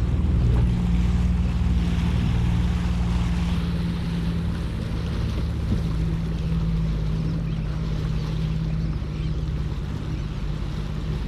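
Jet ski engine running steadily at a constant pitch, with wind and water noise over it.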